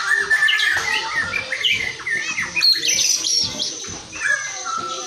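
White-rumped shama (murai batu, Barito Kalimantan type) singing a rapid, varied string of whistles, chirps and sliding notes, with no pauses.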